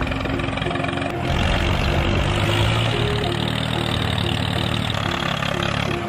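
Mini model tractor running with a steady engine-like hum that grows fuller about a second in, over background music with a repeating melody.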